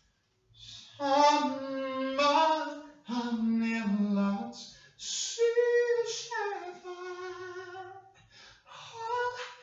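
A person singing alone without accompaniment, holding long notes and sliding between them in a slow melody.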